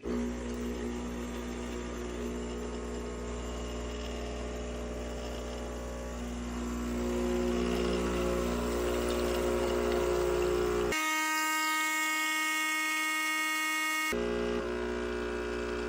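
Breville Barista Touch espresso machine's pump buzzing steadily while brewing an espresso shot, starting suddenly and growing louder about six seconds in. For about three seconds in the second half the low buzz drops out, leaving only higher tones.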